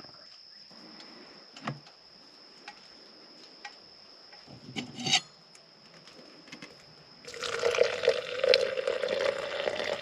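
A quiet stretch with a few light clicks and taps. About seven seconds in, a louder, irregular liquid sound starts: water pouring or bubbling.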